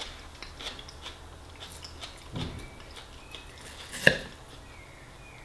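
A man chewing a soft mouthful of fisherman's pie, with small wet mouth clicks. About four seconds in, a metal fork clinks sharply on the plate.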